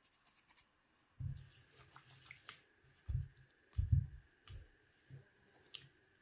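Soft low thumps, about five over a few seconds, with light clicks between them: kitchen utensils and items being handled and set down during baking.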